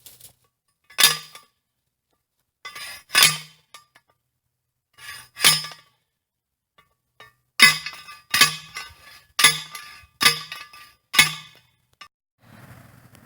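Repeated ringing metal-on-metal strikes, about eight blows: three spaced about two seconds apart, then five in quicker succession, each with the same metallic ring.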